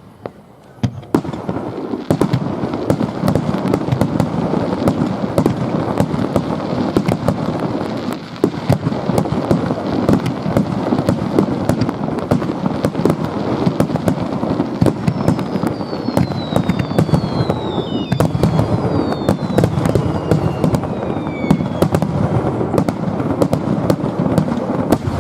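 Fireworks display: a dense, rapid barrage of bangs and crackling that starts about a second in and keeps going. In the second half several falling whistles sound over it.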